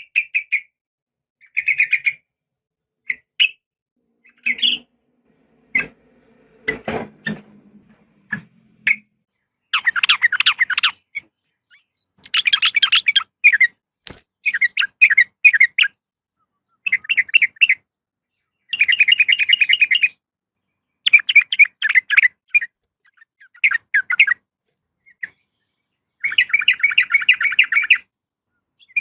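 Sooty-headed bulbul (trucukan) calling: a few short chirps at first, then repeated bursts of fast chattering notes, each lasting a second or two. The call is offered as a female calling for a male. A few faint low knocks come about a quarter of the way in.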